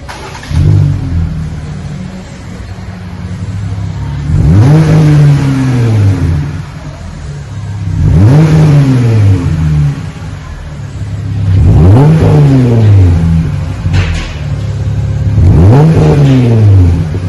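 2020 Jeep Gladiator's 3.6 V6 exhaust through a single chamber V-tube muffler, with the factory cats and resonator still on. The engine starts about half a second in and settles to idle. It is then revved four times, each rev climbing and falling back to idle.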